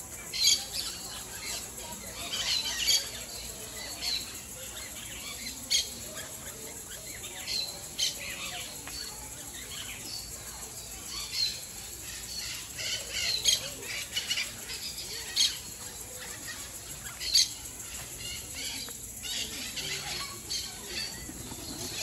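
Birds calling: many short, sharp, high-pitched chirps and squawks at irregular intervals, some overlapping.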